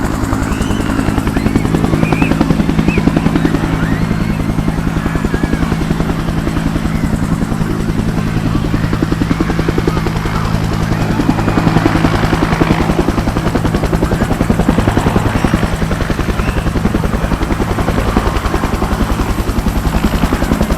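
Bell UH-1 Huey helicopter close at hand, its two-blade main rotor beating in a fast, steady rhythm over a steady drone. Strong rotor downwash buffets the microphone, with gusts around the middle.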